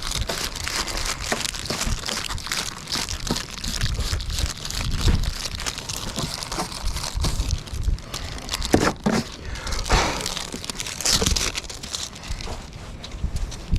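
Crinkling, rustling handling noise as a strip of hip-and-ridge vent material is worked into place along a pole barn roof ridge. Irregular low rumbling from wind on the microphone runs underneath.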